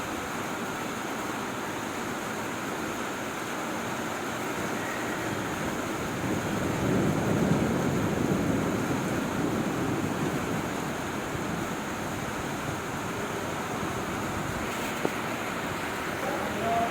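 Heavy rain falling as a steady hiss, with a low rumble that swells from about six seconds in and fades by about eleven seconds.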